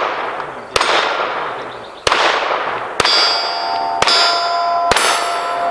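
Pistol shots fired at steel target plates, five shots about a second apart. The struck steel rings after several of them, with clear ringing tones that fade.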